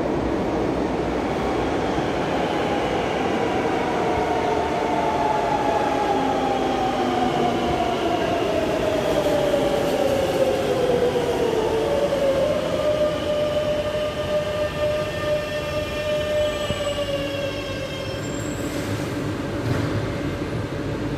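Madrid Metro train running, with an electric whine of several tones that falls steadily in pitch for several seconds as the train slows, then holds at one pitch over the rumble of the cars.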